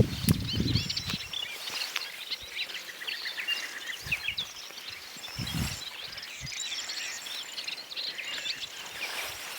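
Many small birds chirping and twittering all through, a dense mix of short rising and falling calls. A low rumbling noise fills the first second, and a few brief low thuds come about four to six seconds in.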